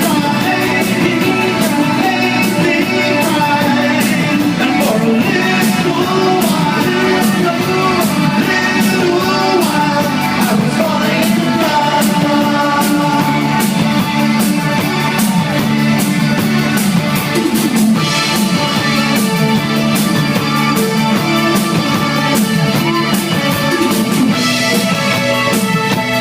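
Live new wave rock band playing: a lead vocal sings over chiming electric guitar and a steady drum beat.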